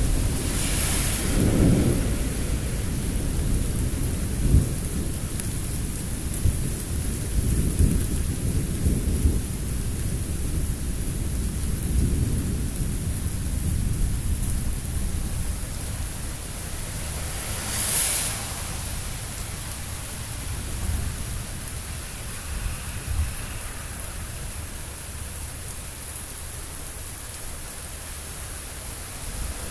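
Thunder rumbling over steady rain. The rumble comes in rolls through the first half and dies away in the second. Brief hissing swells come about a second in and again around eighteen seconds.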